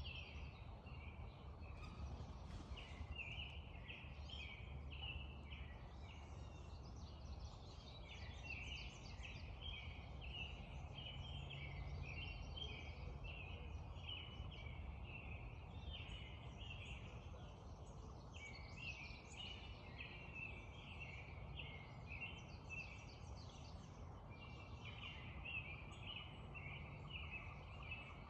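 A dense dawn chorus of many birds chirping and singing at once, in overlapping quick phrases that go on without a break, over a low steady rumble.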